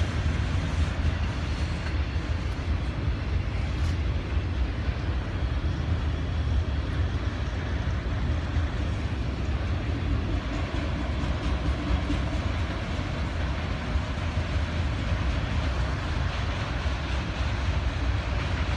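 Freight train of autoracks and intermodal cars rolling past, a steady low rumble of wheels on rail.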